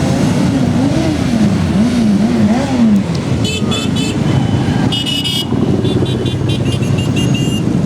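A crowd of motorcycles running together, with one engine's pitch rising and falling several times in the first few seconds. From about the middle on, horns beep in quick series, with one longer blast.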